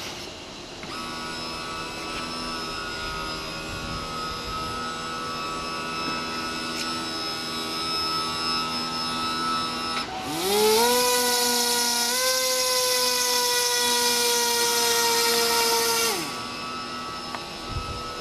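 Toy RC boat's small electric motor running with a steady whine. About ten seconds in, an electric turbofan booster spins up with a rising whine and a loud rush of air, holds for about six seconds, then winds down with a falling whine.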